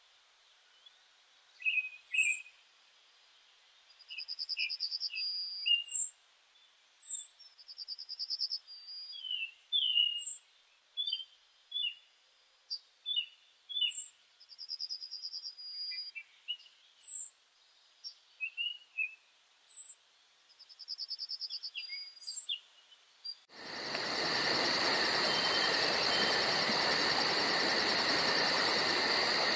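Songbirds calling in a quiet woodland: short sharp high chirps about every two seconds, mixed with brief rattling trills and softer notes. About 23 seconds in, the birds give way abruptly to a steady, louder insect chorus with a fast even pulsing buzz.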